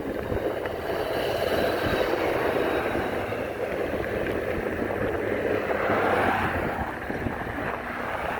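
Steady rushing wind and road noise while riding a bike beside highway traffic, with a vehicle passing and swelling louder about six seconds in.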